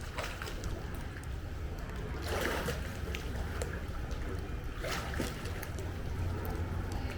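Pool water splashing and sloshing as someone moves through it, with two louder splashes about two and a half and five seconds in.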